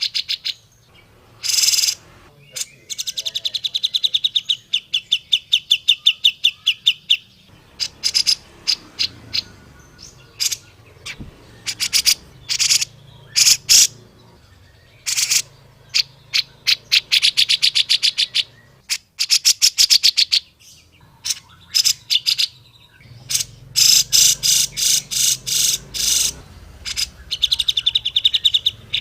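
Grey-cheeked bulbul (cucak jenggot) calling: several runs of rapid, evenly repeated chattering notes, each lasting a second or more, with sharp single notes in between.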